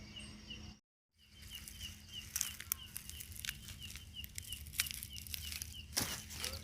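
A steady chirping repeats about twice a second, with scattered rustles and sharp crackles around it. The sound drops out completely for a moment about a second in.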